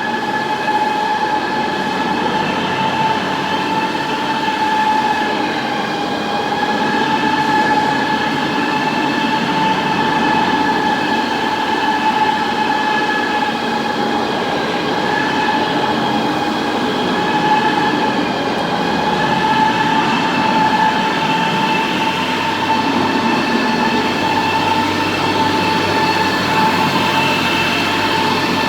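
Concrete floor grinder grinding a concrete ramp surface: a steady high whine, its pitch wavering slightly, over a rough grinding noise.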